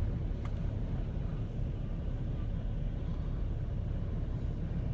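Steady low rumble of storm wind and surf, with the wind buffeting the microphone.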